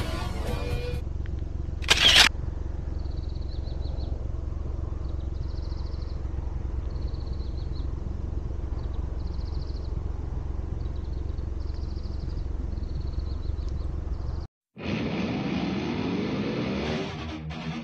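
Suzuki Jimny's engine idling with a steady low hum, and short bursts of high chirping from insects or birds above it. A brief sharp burst comes about two seconds in, and after a short break near the end a louder sound with sliding pitch comes in.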